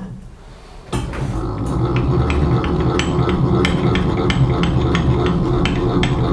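A workshop machine tool starts about a second in and runs steadily while cutting steel, with a low hum and irregular sharp ticks over it, a few per second.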